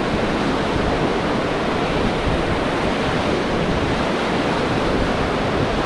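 Steady rush of whitewater river current around a raft, an even noise with no separate splashes or strokes.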